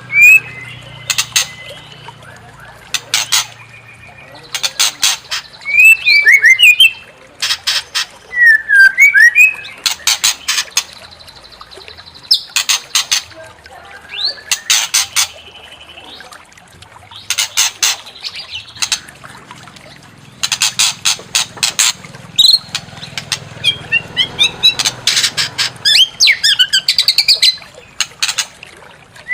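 White-rumped shama (murai batu) singing: bursts of rapid, harsh rattling notes alternating with short whistled slurs and held whistles, repeated throughout.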